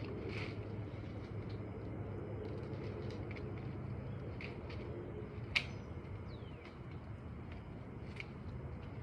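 Steady low rumble of outdoor background noise with scattered short bird chirps, and one sharp click a little past halfway.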